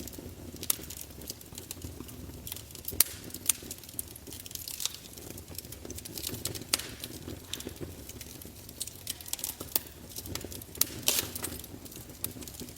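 Wood fire burning in a fireplace: a steady low rumble with frequent sharp, irregular pops and crackles from the burning logs.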